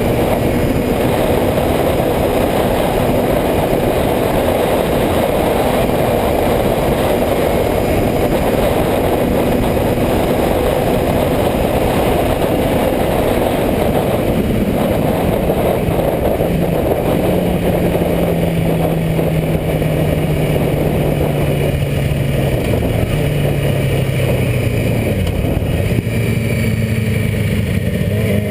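Motorcycle engine running under a steady loud rushing noise, its pitch stepping up and then down in stages in the second half.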